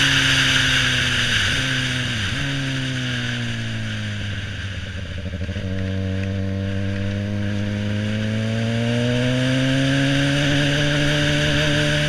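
Suzuki GSX-R 600 inline-four engine while riding. Its pitch falls off over the first few seconds, with two short dips, then climbs again in the second half as the bike picks up speed. Wind rush runs over the microphone throughout.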